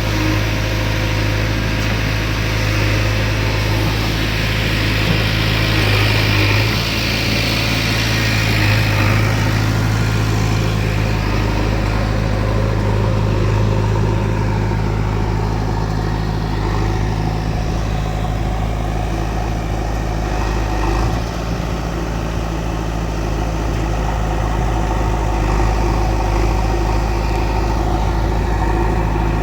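Diesel engines of a backhoe loader and a farm tractor running steadily, with a brief hissing rise in the upper range a few seconds in.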